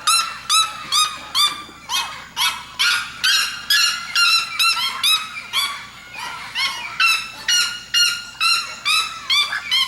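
Red-legged seriema calling: a long series of loud, harsh notes, about two a second, each rising then falling in pitch. Some notes overlap at different pitches, as though more than one bird is calling together.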